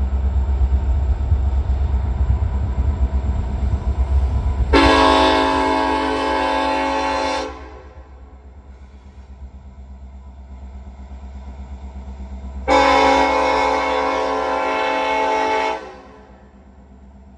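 Diesel freight locomotives running close by, a loud low rumble that drops away about halfway through, while the locomotive's multi-chime air horn sounds two long blasts of about three seconds each, roughly eight seconds apart.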